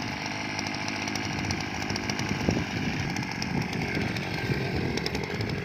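Small petrol engine of a two-row paddy weeder running steadily at a moderate speed, with an irregular low clatter under the engine note.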